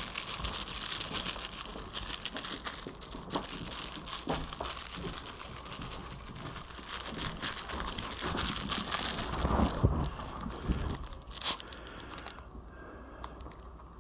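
Close crinkling and rustling: a dense run of small crackles with a few soft thumps, thinning out about twelve seconds in.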